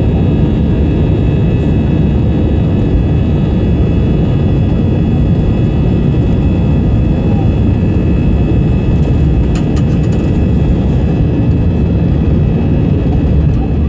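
Steady loud jet roar heard inside the cabin of an Airbus A320-214, its CFM56-5B engines at takeoff power, with a steady high fan whine over the low rumble.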